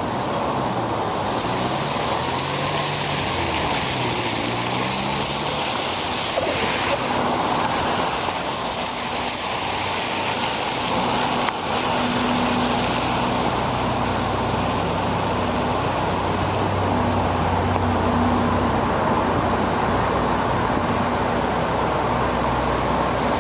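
City road traffic: a motor vehicle's engine rises and falls in pitch over the first few seconds, then a steady engine hum holds from about halfway through, all over a constant hiss of tyres and wind.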